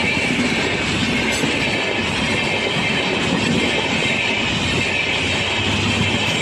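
Express passenger train running along the track: a steady, loud noise of its coaches' wheels on the rails, with a high hiss-like band above the rumble.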